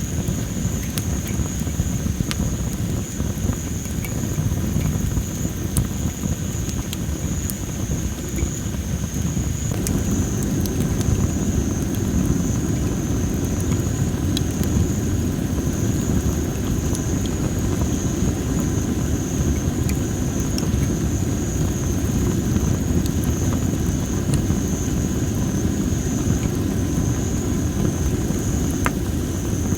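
Campfire of well-dried masaki (Japanese spindle tree) firewood crackling, with scattered sharp pops over a steady low rumble that grows louder about ten seconds in. A constant high-pitched whine runs underneath.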